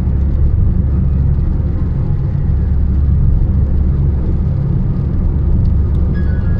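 Steady low rumble of a car driving along a highway: engine and road noise.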